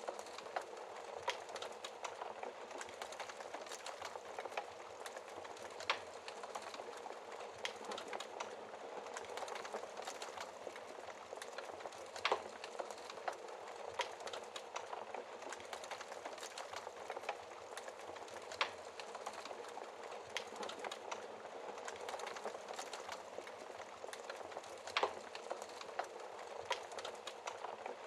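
Wood fire crackling in a fireplace, with irregular sharp pops over a steady hiss of rain; the loudest pop comes about twelve seconds in.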